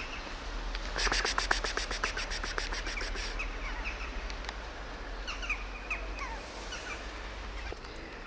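Birds calling: a rapid high rattle of about ten clicks a second for about two seconds, then several short falling chirps a few seconds later.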